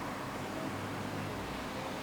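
Steady city ambience: an even hiss of distant traffic with a faint low hum.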